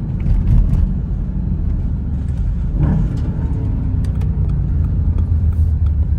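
Car exhaust with the muffler deleted, a deep steady rumble. About halfway through it is revved once, the pitch rising sharply and then falling back.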